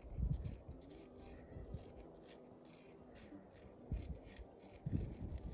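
Dry scratchy rubbing and scraping of soil and debris being handled while a small, rubbish target is checked, in a string of short strokes with a few low thumps about four and five seconds in.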